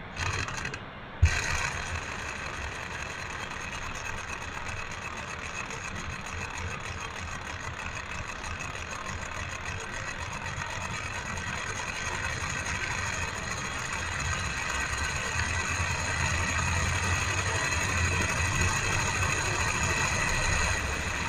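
A 16-cylinder model Stirling engine running steadily, with a sharp knock about a second in; its mechanical running sound grows gradually louder.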